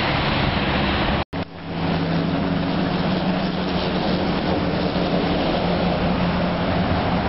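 A car driving, with steady road and engine noise and a low engine hum. The sound cuts out for an instant a little over a second in, then carries on.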